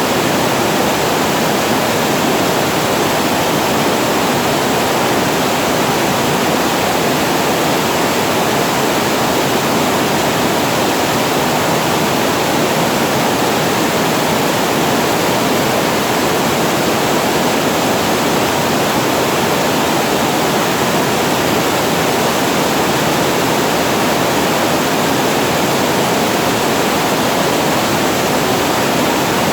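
Water spilling over a reservoir weir: a steady rushing with no change.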